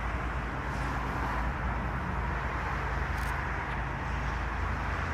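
Steady rumble and hiss of a Boeing 777-200's jet engines running at idle while the airliner lines up on the runway, even throughout with no rise in power.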